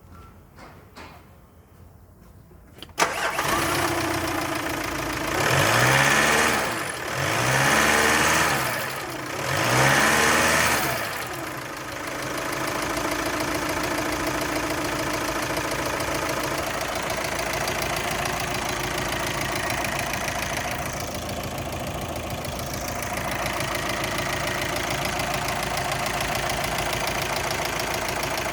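2013 Volkswagen Amarok engine starting suddenly about three seconds in, then revved three times, each rev rising and falling, before it settles into a steady idle.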